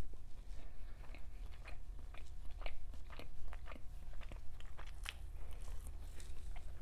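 Close-miked chewing of a mouthful of French toast: irregular soft clicks and smacks of the mouth and food.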